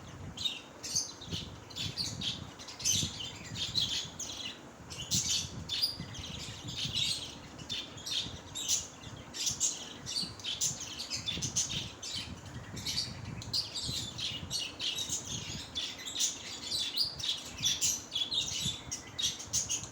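A group of small pet parrots chirping and chattering, with many short calls overlapping continuously.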